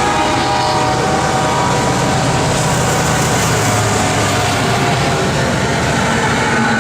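A BNSF coal train's cars rolling past on the rails, with a loud, steady rumble and rail noise and a few thin steady tones above it.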